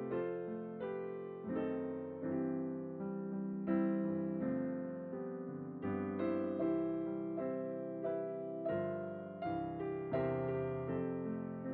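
Background piano music: a gentle melody of sustained notes, each struck and dying away.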